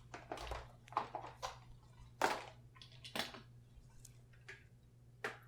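Small hard objects being handled and shifted on a desktop: a string of light knocks and clicks, the sharpest about two and three seconds in, over a faint steady low hum.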